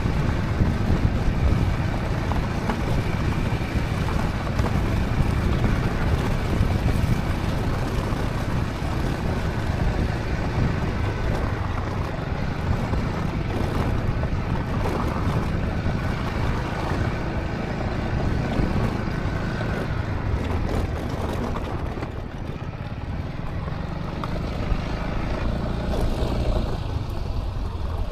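Honda ADV350 scooter riding along: wind rushing over the microphone over the steady running of its single-cylinder engine, easing off briefly about three-quarters through.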